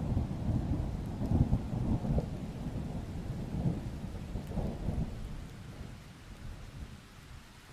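Distant thunder rumbling low and rolling, swelling about a second and a half in and dying away over the last couple of seconds, with a steady hiss of rain underneath.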